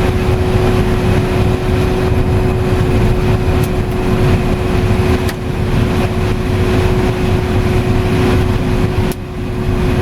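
Combine harvester running while harvesting corn, heard from inside the cab: a steady, loud machine rumble with a constant hum over it, dipping briefly about nine seconds in.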